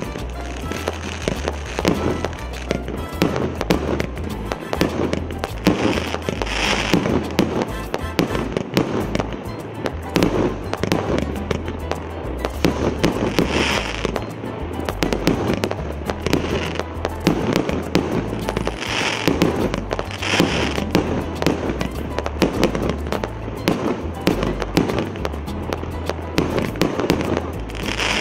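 Multi-shot fireworks cake, a 214-shot battery of 1.25- and 1.5-inch shells, firing shot after shot without pause: launches and aerial bursts follow one another several times a second. About six louder, sharper bursts stand out along the way.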